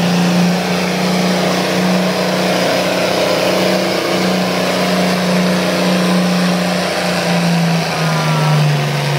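A 1969 John Deere 4020 tractor's six-cylinder engine running hard under load as it pulls the sled. Its pitch holds steady, then drops in the last second as the engine slows.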